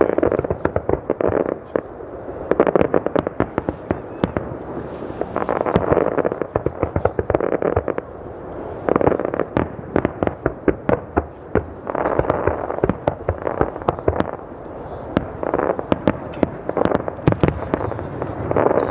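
Aerial fireworks bursting in a rapid barrage: dense volleys of sharp bangs and crackles that surge in waves every few seconds.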